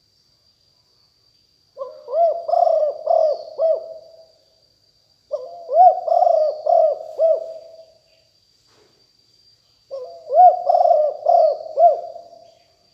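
Spotted dove cooing: three repeated phrases, each of about four rising-and-falling coos, with short pauses between them. Faint high chirps of small birds and a thin steady high whine sit in the background.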